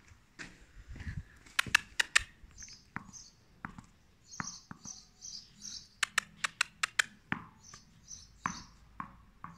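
Small birds chirping over and over in short high notes, with quick runs of sharp clicks or taps about two seconds in and again around six to seven seconds in.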